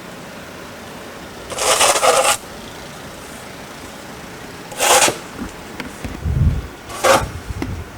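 Snow shovel scraping across snow-covered pavement in three separate strokes, the first the longest, with a few dull low thumps between the later ones.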